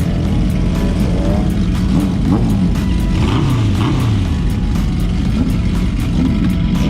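Motorcycle engine running on the road, its pitch rising and falling as it revs, with music playing along.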